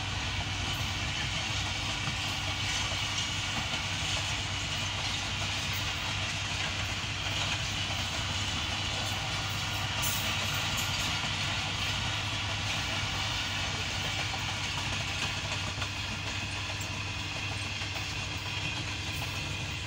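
Passenger coaches of a train rolling past close by: a steady rush of wheel-on-rail noise over a low rumble.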